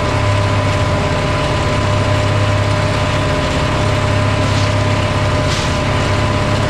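1987 Vermeer 1600 woodchipper running steadily at speed, a loud, even engine drone with a constant whine above it.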